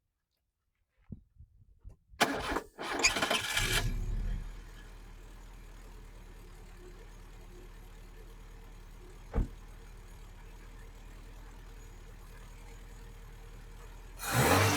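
Carburetted four-cylinder VW GTI engine cranking and catching about two seconds in, then settling to a steady idle, with a single sharp click about halfway through and the revs rising near the end. The owner puts the rough running down to number 4 cylinder not firing.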